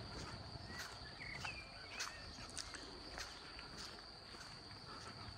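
Light rain ambience: scattered drops tapping irregularly, with a few short bird chirps between about one and two and a half seconds in, over a faint steady high-pitched whine.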